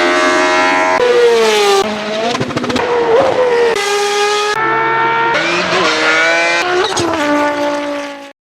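Porsche 997 GT3 rally car's flat-six engine running loud at high revs, its pitch rising and falling as it is driven hard through the gears, with the sound changing abruptly several times. It cuts off suddenly near the end.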